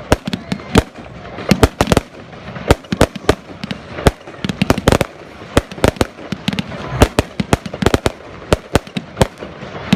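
Fireworks display: a rapid, irregular string of sharp bangs, several a second, from shells bursting overhead, with a constant crackle and rumble between them.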